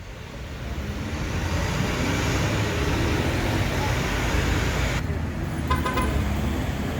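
City street traffic noise: a steady wash of road and tyre noise from passing vehicles, fading in over the first two seconds.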